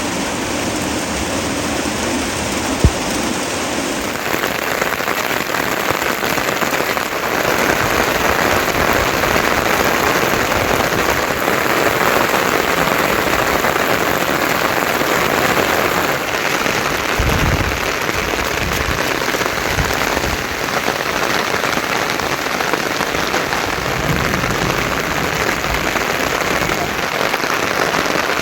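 Heavy monsoon rain falling steadily and densely, growing a little louder about seven seconds in, with a single sharp knock about three seconds in.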